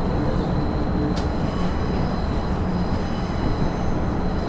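KiHa 110 series diesel railcar running along the line: a steady low rumble of diesel engine and wheels on rail, with a faint high steady tone and one sharp click about a second in.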